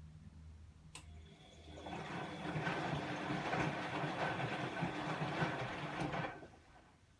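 Bosch WAE24162GB03 washing machine: a relay clicks, then the motor starts and turns the drum with a fast rhythmic whirr for about four seconds before stopping, a tumble stroke of the rinse cycle.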